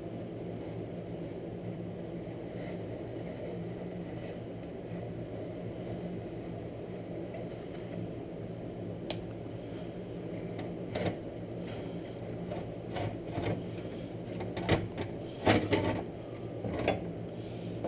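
Recoil pull starter from a 1984 Honda ATC 185S handled by hand while its spring is wound up under tension. Scattered clicks and knocks, sparse at first and thickest in the last few seconds, over a steady low hum.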